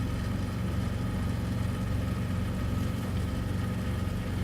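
Semi-truck's diesel engine running with a steady, even hum.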